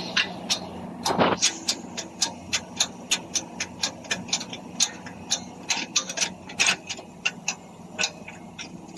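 Quick, irregular light metallic taps and clicks, about three a second, from metal parts being worked on by hand during a gearbox repair, with a short scrape about a second in.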